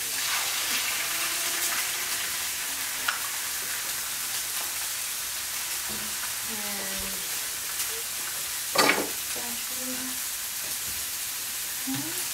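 Fried rice and eggs sizzling steadily on an electric griddle, with a sharp clatter about nine seconds in.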